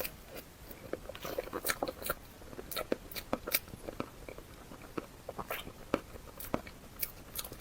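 Close-miked eating: a person biting and chewing food, with many irregular sharp crunches and wet mouth clicks.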